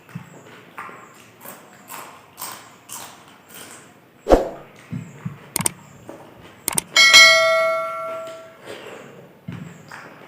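Eating sounds: chewing and lip-smacking clicks about twice a second, a knock about four seconds in, then a metal dish struck about seven seconds in, ringing for about a second and a half.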